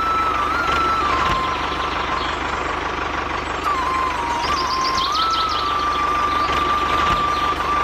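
Small electric motor and gearing of a homemade toy tractor whining at a high, steady pitch over a fast low buzz as it drives. The pitch dips lower about a second in and again for a stretch in the middle as the motor labours, then recovers.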